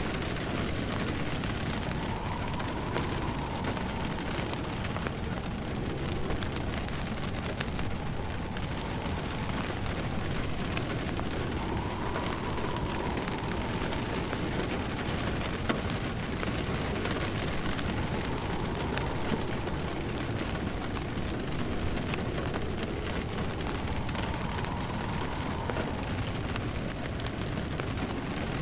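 Steady rain on a surface mixed with a wood fire crackling, with many small sharp pops scattered throughout. A faint wind howl rises and falls a few times.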